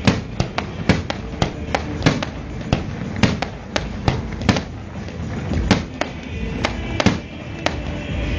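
Fireworks going off in a rapid, irregular series of sharp bangs, several a second, with music playing underneath.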